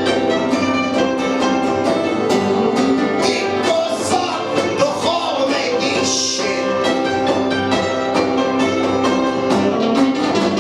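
Live punk band playing an instrumental passage: guitar over a steady, evenly repeating drum beat.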